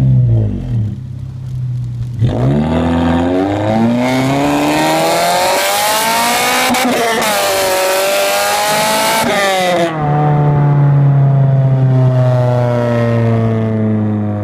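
Honda Accord Type R's 2.2-litre four-cylinder VTEC engine through a de-catted straight-pipe exhaust with no back boxes, revving up to high revs and holding there for several seconds. About ten seconds in the pitch drops sharply and settles to a lower, steady note that falls slowly.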